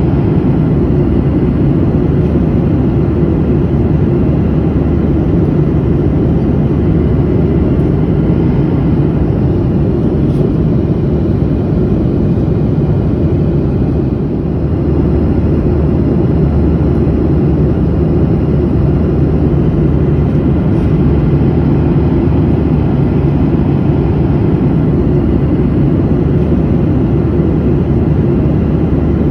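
Airliner in flight heard from inside the passenger cabin: a steady low rumble of engine and airflow noise, with a slight brief dip about halfway through.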